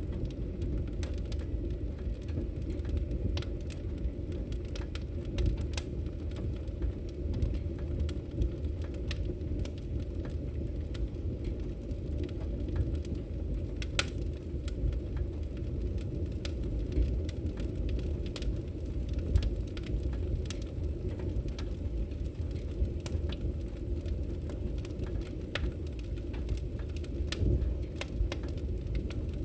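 Wood fire crackling in a fireplace: a steady low rumble under frequent sharp, irregular pops and snaps, with one louder pop about halfway through.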